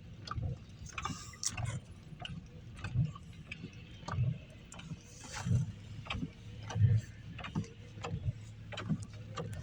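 Vehicle sounds in heavy rain: a regular low thump about every second and a bit, with scattered sharp ticks over a steady low hum.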